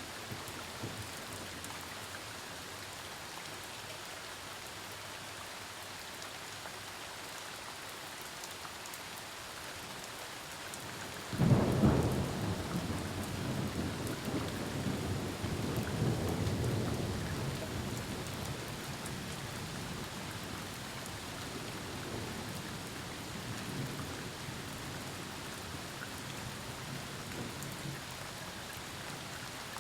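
Steady rain falling throughout, with a sharp thunderclap about a third of the way in, followed by long rolling thunder that rumbles on for several seconds and slowly fades back under the rain.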